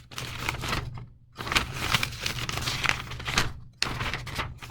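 Paper rustling and crinkling as a crumpled instruction sheet is handled and its pages turned, in irregular stretches with short pauses, over a steady low hum.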